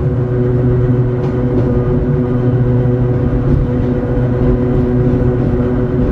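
Hakone Tozan Railway Moha 1-class electric railcar running up the steep mountain grade: a steady hum from its traction motors and gears over the rumble of steel wheels on the rails, with a few faint ticks.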